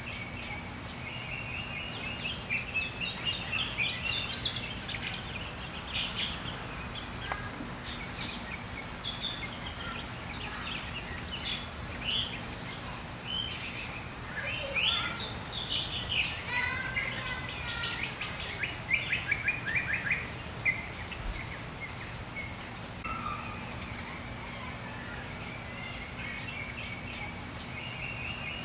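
Songbirds chirping and singing, many short quick notes that are busiest through the middle and thin out near the end, over a faint steady low hum.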